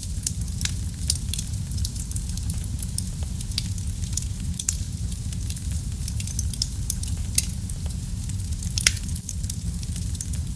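Fireplace fire crackling: a steady low rumble of flames with frequent small snapping pops. Two louder pops come about seven and nine seconds in.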